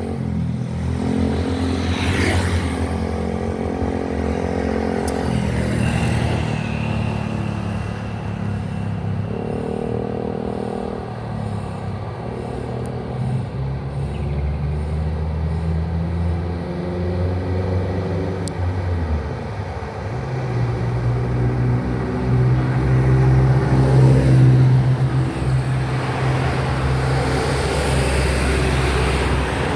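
Road traffic: the engines of passing motor vehicles, a low engine drone that changes pitch several times and grows loudest about two-thirds of the way through.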